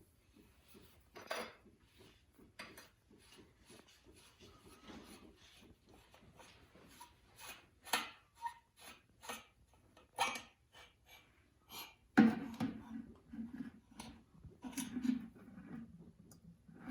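Scattered metallic clinks and knocks of hand tools against a motocross fork's parts while its caps are loosened and the fork is drained. The loudest clank comes about twelve seconds in, followed by a short rattle.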